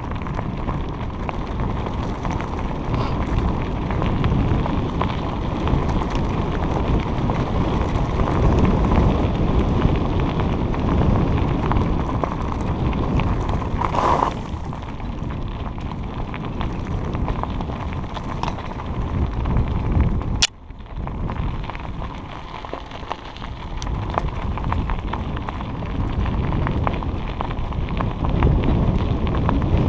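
Wind buffeting the microphone over the rumble and crackle of bicycle tyres rolling on a dirt trail. A sharp click with a brief drop in level about two-thirds of the way through.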